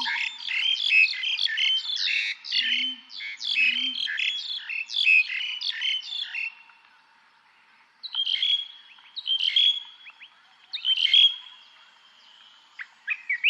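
Songbirds singing. A fast, dense run of chirping notes lasts about six seconds, with two faint low calls beneath it. After a short pause come three separate phrases, each trailing into a held whistle, and a burst of chirps near the end.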